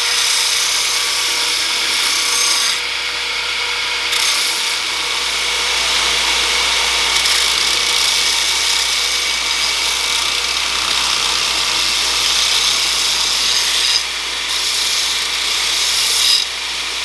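Belt grinder running, with a steel blade ground against the belt over the contact wheel: a steady hiss of abrasive on steel. The hiss drops away briefly about three seconds in and twice near the end as the steel is lifted off the belt.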